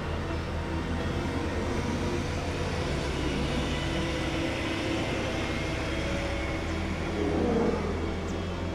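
Bus engine running with a steady low hum, with a brief louder swell about seven seconds in.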